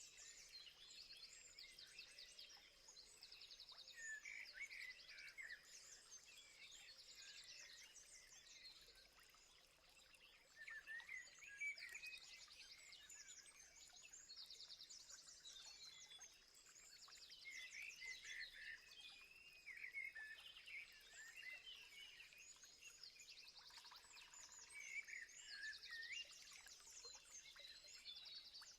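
Faint birdsong from several birds: short chirps and quick repeated trills, coming again and again, over a thin steady high-pitched whine.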